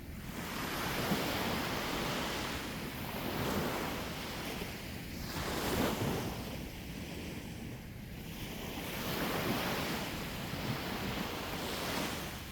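Sea waves breaking on a shore, the wash swelling and falling back every few seconds, with wind on the microphone.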